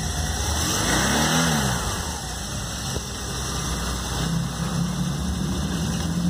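2007 BMW R1200 RT's boxer twin engine running after a cold start, revved briefly about a second in and then idling evenly. It runs without knocking or unusual noises.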